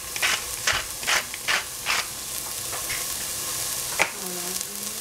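Capsicum strips sizzling steadily in a stainless steel pot, with a quick run of about six short scraping strokes in the first two seconds and a single knock about four seconds in. A voice with a gliding pitch starts near the end.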